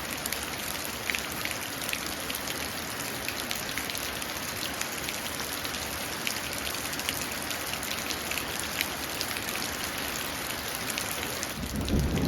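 Steady rain pattering into a puddle, with many small distinct drop splashes. A low rumble of thunder starts to build near the end.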